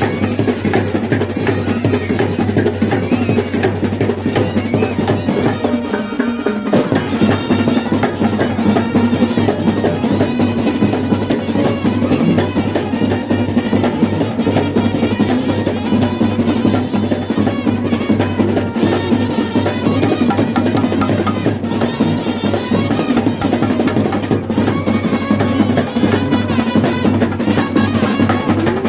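Loud, continuous festival drumming with a melody line playing over it, from a temple procession ensemble.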